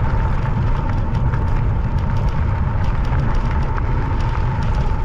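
E-bike tyres crunching and crackling over a gravel road, with a steady thin whine from the electric motor and heavy wind rumble on the microphone.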